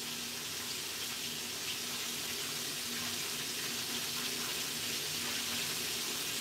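Chicken frying in hot oil, a steady sizzle with no breaks.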